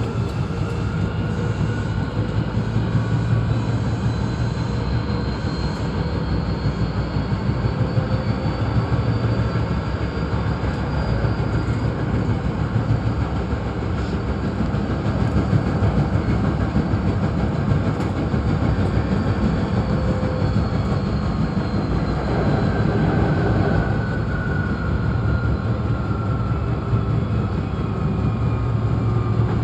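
Hankyu 8300-series electric train, set 8312, running on the line, with a steady rumble of wheels on rail. A motor whine climbs in pitch over the first several seconds and falls back down near the end.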